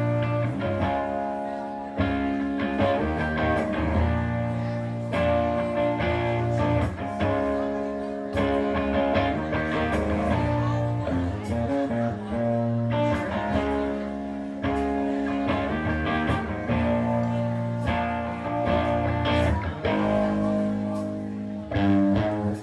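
Live rock band playing the instrumental opening of a song: guitars over bass and drums, with regular drum and cymbal hits.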